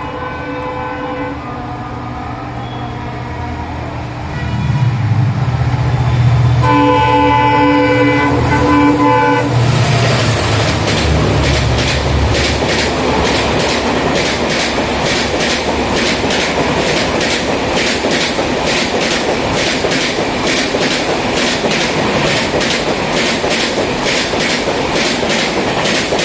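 Indian Railways Humsafar Express passing close by: the locomotive's horn sounds a chord briefly at the start and again, louder, for about three seconds, while the locomotive's rumble swells. Then the coaches' wheels clatter over the rail joints in a fast, steady clickety-clack.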